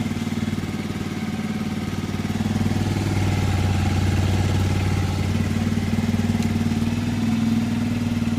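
Motorcycle engine idling as it warms up from cold, running steadily, a little louder from about two and a half seconds in.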